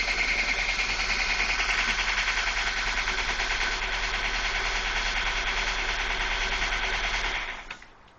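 Ford Focus engine running with a loud, rapid clanging knock, the sound a mechanic took for a thrown connecting rod; it cuts off about seven and a half seconds in.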